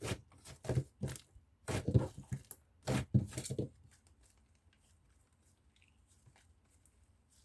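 Mixed slime being squeezed and pressed by hand: a quick run of sharp, sticky squelches for about the first three and a half seconds, then only faint small sounds.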